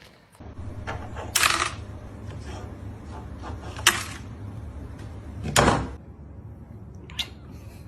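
Four sharp knocks or bangs, the third the loudest, over a low steady hum.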